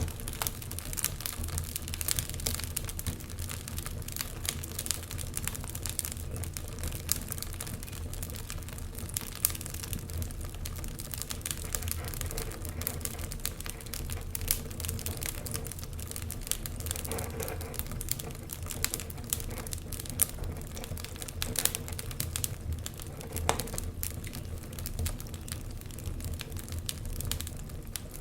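Wood fire crackling: dense, irregular snaps and pops over a steady low rumble.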